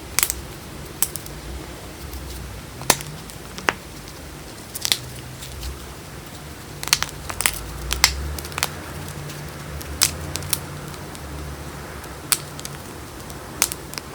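Chunks of gym chalk being crushed and snapped between the fingers: irregular sharp crunches and cracks, several in quick clusters, very crunchy.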